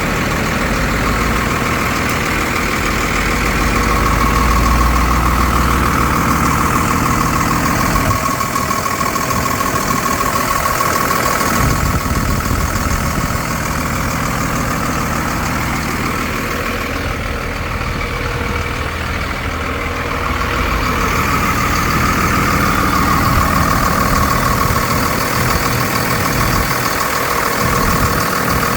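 5.9 Cummins inline-six turbodiesel of a 2000 Ford F650 truck running steadily at idle, with a whine that swells and fades.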